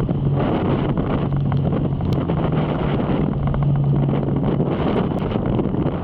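Heavy wind buffeting the microphone of a moving motorcycle, with the engine's steady low hum underneath.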